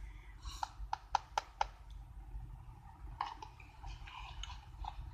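A quick run of five sharp clicks within about a second, then softer scattered clattering and rustling, like small hard objects being handled on a table.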